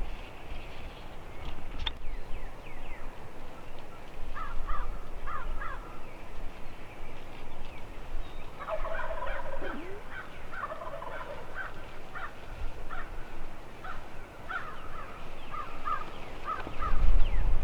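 Wild turkeys gobbling and calling in several groups of short, rapid notes, with other birds calling. A low rumble comes in near the end.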